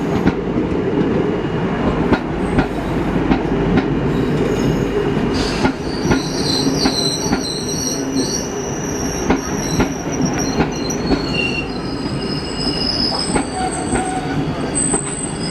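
Train running on the rails: a steady low rumble with repeated sharp wheel clicks, and high-pitched wheel squeal that starts about five seconds in and comes and goes.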